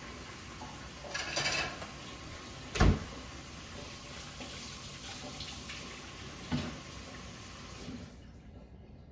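Steady running water, with a sharp knock about three seconds in and a softer one later. The water stops about eight seconds in.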